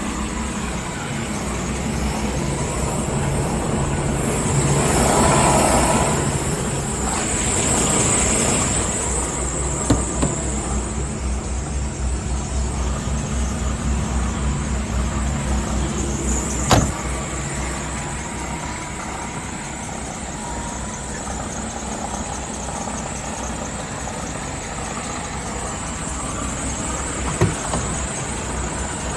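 DAF XF 480 truck's diesel engine idling with a steady low rumble, swelling louder for a few seconds about five seconds in. A sharp click or knock comes about seventeen seconds in, with fainter ones around ten and twenty-seven seconds.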